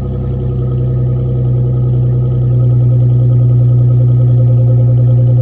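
2017 Nissan Maxima's 3.5-litre V6 running through an exhaust with the rear mufflers removed, a straight pipe with only the factory resonator. A steady, deep drone that gets slightly louder about halfway through.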